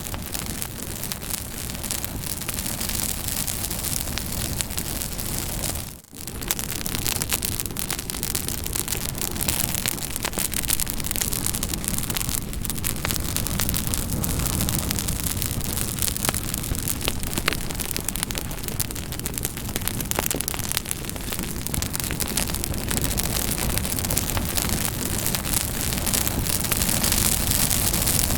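Campfire burning with a steady hiss and many small sharp crackles and pops. The sound dips briefly about six seconds in, then carries on as before.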